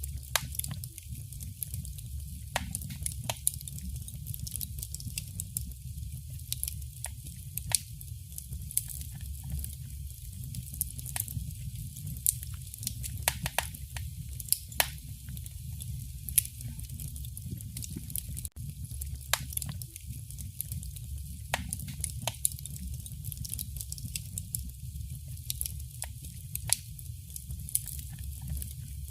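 Wood fire burning in a fireplace: irregular crackles and sharp pops from the burning logs over a low, steady rumble of the flames.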